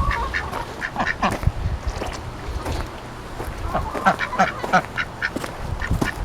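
Welsh Harlequin ducks quacking, many short calls one after another.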